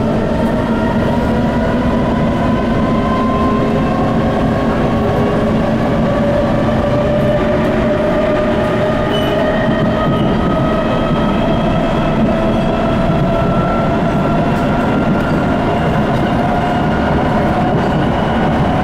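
C151 MRT train's traction motors whining, several tones climbing slowly together as the train gathers speed, over the steady rumble of the wheels on the rails. The motor is strong in this car.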